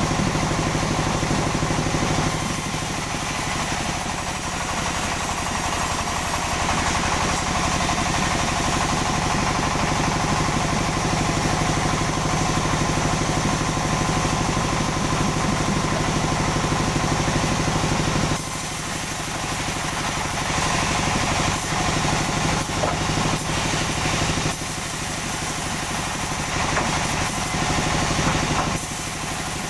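Sawmill machinery running: a steady engine drone with saw noise over it, its tone shifting a few times as the load changes.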